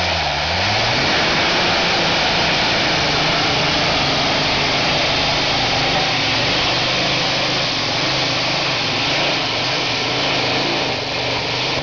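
Modified pulling tractor's engine at full throttle under load, pulling the weight sled: very loud and steady, its pitch climbing during the first second as it launches.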